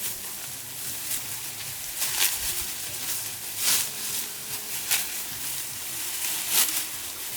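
Rustling, with four or five short, crisp swishes spaced a second or so apart over a steady outdoor background.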